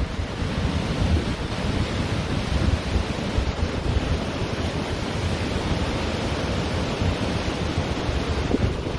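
Ocean surf washing onto a beach in a steady rush, with wind buffeting the microphone as a low rumble.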